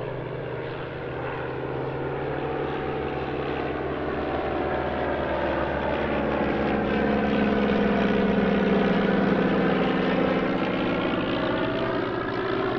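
De Havilland Gipsy-engined light propeller aircraft flying past. The piston engine note grows louder to a peak about eight or nine seconds in, then drops in pitch as the aircraft go by.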